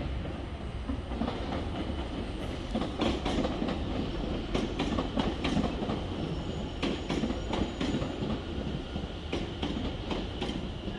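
Electric passenger train running along the line past the platform, with a steady low rumble and an uneven run of wheel clicks over the rail joints.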